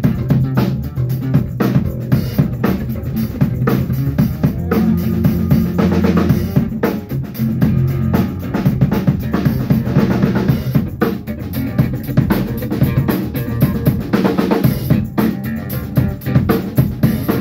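Band music driven by a drum kit playing a steady beat, with bass drum and snare hits over sustained pitched instruments.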